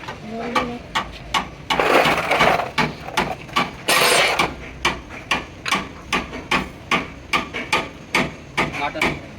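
Repeated hammer blows during heavy truck axle repair work, about three a second. Two longer rushing noises break in, about two and four seconds in.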